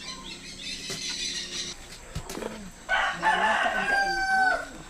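A rooster crows once, a single long held call starting about three seconds in, over a steady high insect-like hiss.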